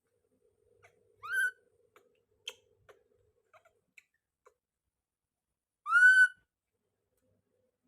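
Baby monkey giving two short, rising, whistle-like calls, one about a second in and a louder one about six seconds in, with a few faint clicks between them.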